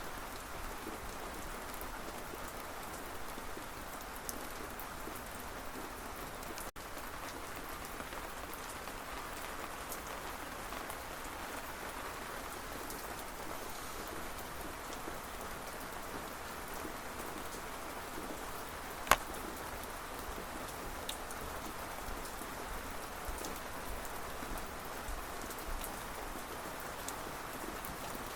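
Steady rain falling on a surface, a continuous even hiss scattered with small drop ticks. One much louder single drip-like tick comes about two-thirds of the way through, and the sound cuts out for an instant about a quarter of the way in.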